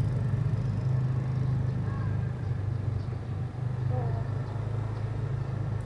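Motorcycle engine idling steadily, its pitch shifting slightly a couple of times, with faint voices in the background.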